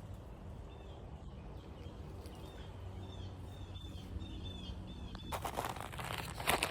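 A small bird chirping repeatedly over a low steady rumble, then a loud rush of noise in the last second and a half.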